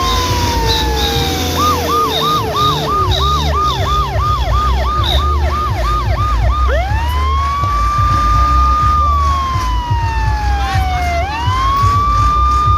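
Electronic siren sounding over a low rumble: a held tone sliding down in pitch, then a rapid yelp of about a dozen quick rising sweeps, then a long rise back to a held tone that falls and climbs again near the end.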